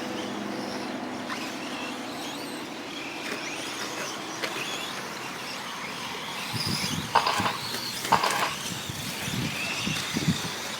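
Electric 4wd short course RC trucks racing: the motors whine, rising and falling in pitch, over a steady track noise. There are a couple of sharp knocks about seven and eight seconds in.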